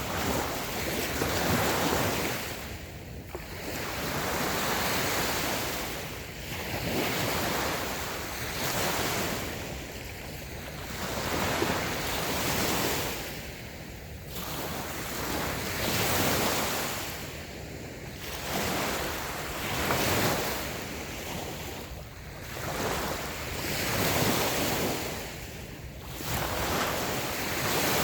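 Small waves breaking and washing up on a sandy beach, the surf swelling and falling back every few seconds, with some wind on the microphone.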